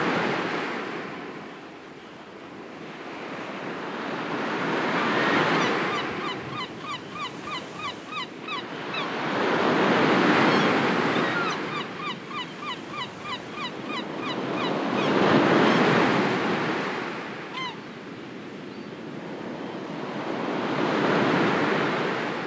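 Sea waves breaking and washing in, swelling and falling back about every five seconds. Over them a bird twice calls a quick run of short, repeated notes, with one more single note later.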